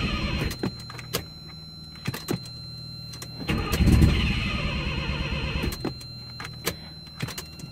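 1984 Mazda RX-7's rotary engine cranking on the starter in the cold without catching, with jumper cables on a weak battery; the cranking gets louder for about a second about halfway through, with a few sharp clicks along the way.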